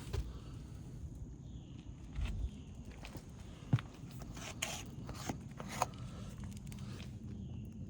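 Footsteps and scuffs on an asphalt shingle roof, with a few sharp clicks and short scrapes, the clearest about halfway through.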